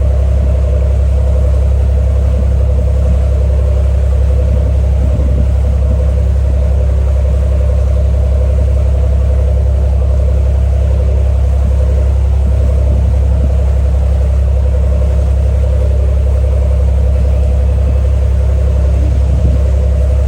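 Small ferry's engine running steadily at cruising speed: a loud, even low drone with a steady mid-pitched hum above it.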